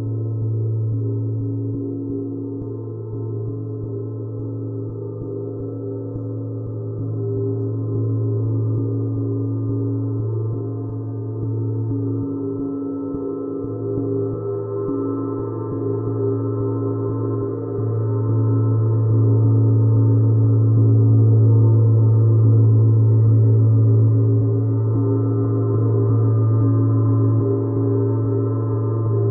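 A deep, sustained instrumental drone: a steady low hum with a stack of held overtones and a slow wavering shimmer, swelling louder about two-thirds of the way through.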